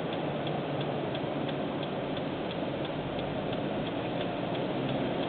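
Steady road noise inside a moving vehicle's cab, with a dashboard turn-signal flasher ticking about three times a second.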